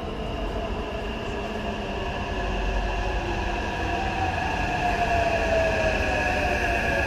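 Taipei Metro train running, with a rumble underneath and steady high-pitched whining tones. From about halfway through, a whine falls gradually in pitch as the sound grows a little louder.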